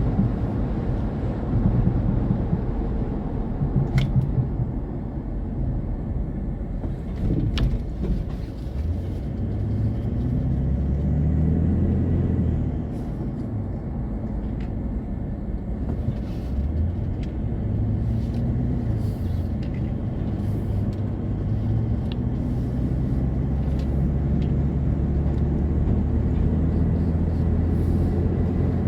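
Car driving in strong wind: a low rumble of wind and road noise, with the engine note climbing and dropping several times as the car accelerates and shifts gear. A couple of sharp clicks in the first eight seconds.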